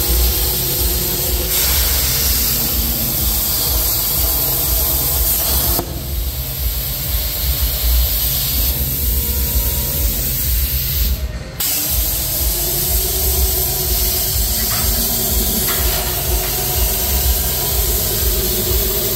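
Steady hiss of a CNC plasma cutting torch, over a low pulsing drone, with sudden breaks about six and eleven and a half seconds in.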